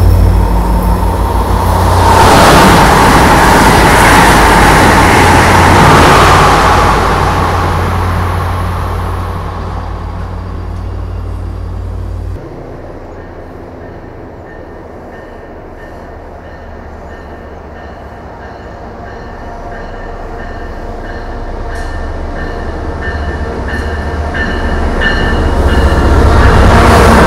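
A train passing close by, loudest in the first seven seconds, with a steady low rumble that cuts off suddenly about twelve seconds in. Then another train is heard approaching, growing steadily louder, with a thin high whine over it.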